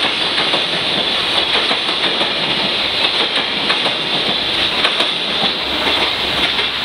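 A steady, loud running noise with many faint, irregular clicks and knocks through it.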